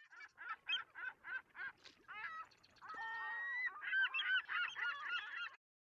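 A flock of birds calling: a quick run of single calls, about four a second, then many calls overlapping from about three seconds in. They cut off suddenly near the end.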